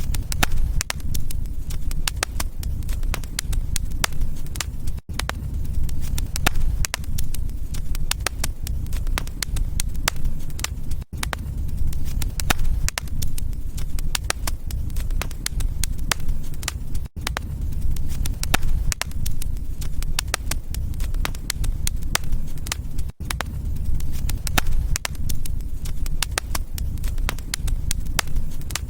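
Wood fire burning in a fireplace: dense, steady crackling over a low rumble, broken by a very brief drop-out about every six seconds.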